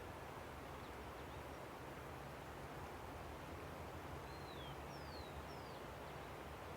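Steady rush of a river flowing, with a bird giving three short falling whistles a little past the middle and a few faint chirps early on.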